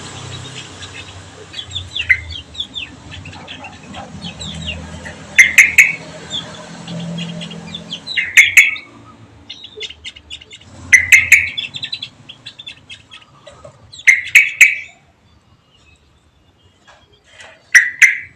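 Caged white-eye birds chirping: scattered thin chips broken by five loud bursts of rapid calls, spaced about three seconds apart.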